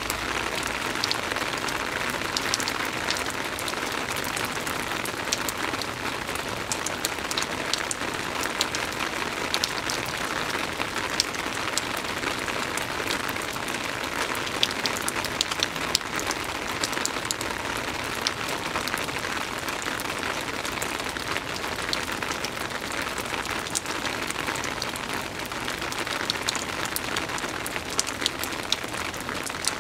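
Soft rain falling steadily: an even hiss scattered with many small, sharp drop ticks.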